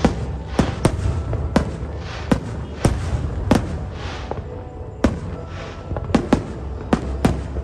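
Aerial fireworks going off in a fast, uneven string of sharp bangs, about two a second with a short lull midway, over a steady low rumble and the hiss of crackling trails.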